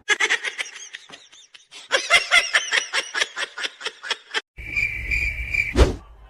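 Rapid high-pitched chirping, several chirps a second, with a short pause about a second in. Near the end it gives way to a steady high tone over a low hum that ends in a quick sweep.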